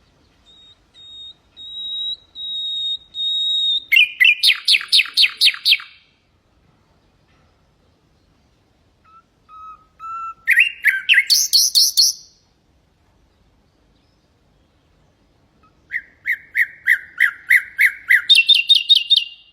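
Common nightingale singing three phrases with pauses between them. The first opens with a long whistled note repeated and swelling in loudness, breaking into a fast rattling run of repeated notes. The later phrases are quick series of repeated notes, the last ending on a higher rattle.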